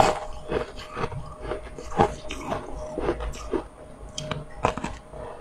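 A frozen ice cookie being bitten and chewed close to the microphone, with irregular crisp crunches several times a second.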